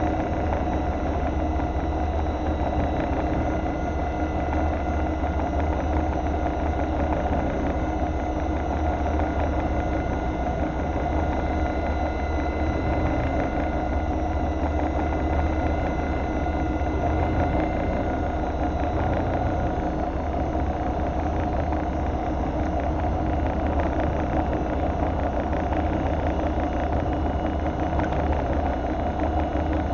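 Fishing boat's engine running steadily: a constant low hum with faint steady whines above it and no change in speed.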